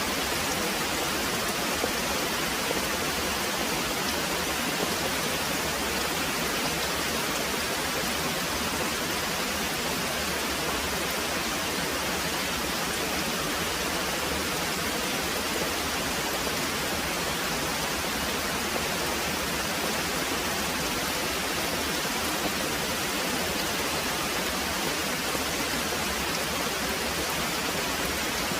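Very heavy rain pouring steadily, a dense, even hiss with no distinct thunder.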